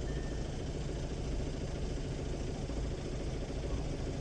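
Motor vehicle engine idling with a steady low rumble.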